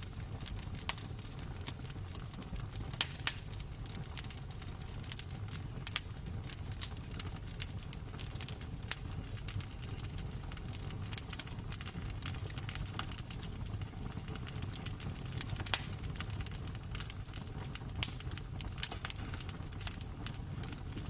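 Wood fire crackling in a fireplace: irregular sharp pops and snaps over a steady low rumble, with a few louder pops about 3, 16 and 18 seconds in.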